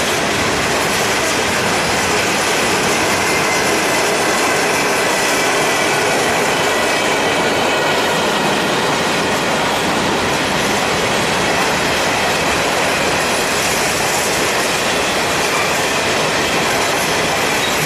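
Railroad cars rolling steadily past, wheels clattering over the rails with a faint steady squeal of wheels on rail.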